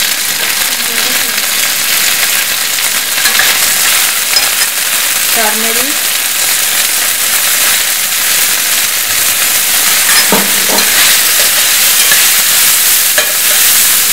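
Onion, green peas and spices frying in hot oil in a stainless steel pan, a steady loud sizzle as they are stirred with a spatula.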